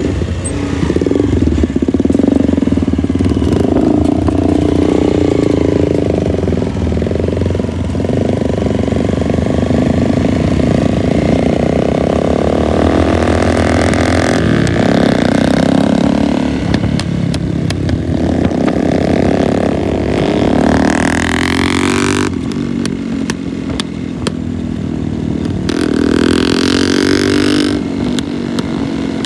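Motorcycle engine running on the move, its pitch rising and falling with the revs, with one long climb in revs about twenty seconds in.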